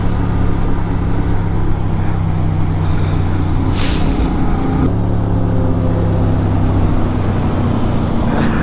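Motorcycle engine running at a steady cruising speed, its pitch holding even, with a constant rush of road noise. A brief hiss comes about four seconds in.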